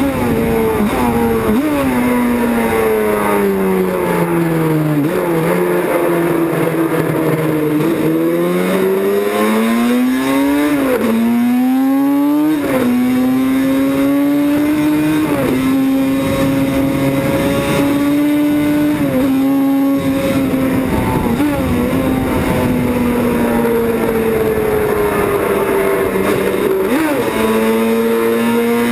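Racing motorcycle engine running hard at high revs. Its pitch sags, climbs, then drops sharply and recovers several times as it goes through the gears.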